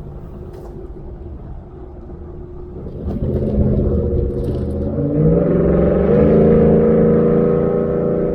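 2019 Ford F-150's engine through a Borla ATAK exhaust: a low steady drone, then the truck accelerates. The exhaust gets louder about three seconds in, rises in pitch about five seconds in, then holds steady at the higher pitch.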